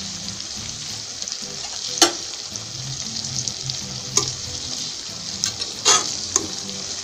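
Whole masala-coated cauliflower sizzling steadily in a pan of oil with a dollop of ghee melting on top, its masala cooked dry and frying in the oil. Three sharp clicks of a utensil against the pan come about two, four and six seconds in.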